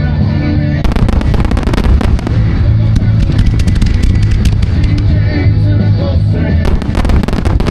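Fireworks going off in a rapid run of sharp pops and bangs over loud music, with the pops thickest about a second in and again near the end.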